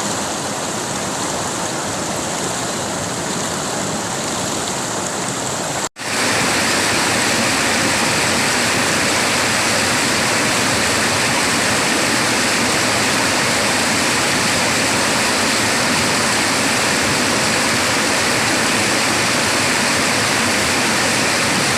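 River water rushing steadily. About six seconds in it cuts out for a split second, then comes back louder and runs on steadily.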